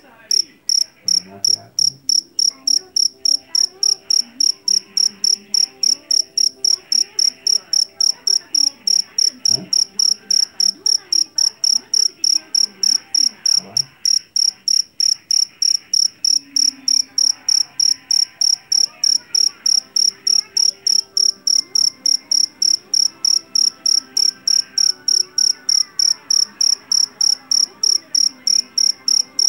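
Jangkrik jeliteng (Javanese black field cricket) calling loudly and shrilly: a steady run of even, high chirps, about three a second.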